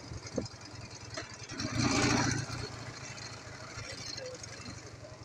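Ural motorcycle's flat-twin engine running at low revs, with a brief louder surge of noise about two seconds in.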